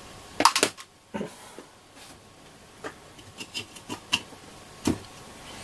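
Scattered small clicks and knocks, about a dozen, from the parts of a radio receiver being handled during disassembly: screws coming out and a circuit board and casing being worked loose by hand.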